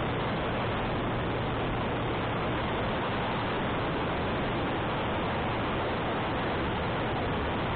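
Steady wind noise rushing over the microphone of a moving motorcycle, with a faint low engine hum beneath it.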